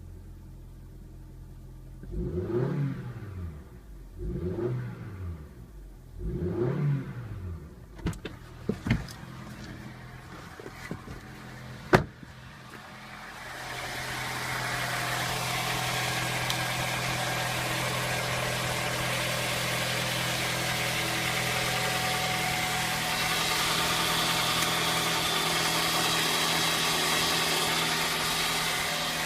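Honda F23A2 2.3-litre four-cylinder petrol engine idling and revved in three quick blips, each rising and falling. About twelve seconds in there is a sharp click, then a loud steady hiss joins the idle and keeps on.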